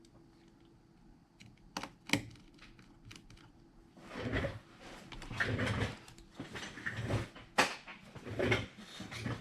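Handling noise of small tools and phone parts on a work surface: a few sharp clicks about two seconds in, then several seconds of scraping and rustling with more clicks.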